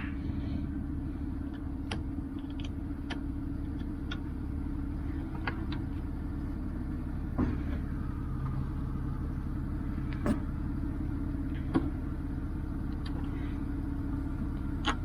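A steady low motor hum, with a few short clicks and scrapes of a pointed tool picking mud out of screw heads.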